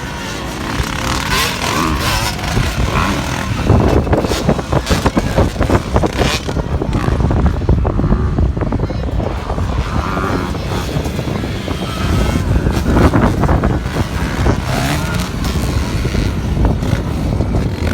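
Motocross dirt bike engines running hard around the track, the pitch rising and falling as the riders work the throttle.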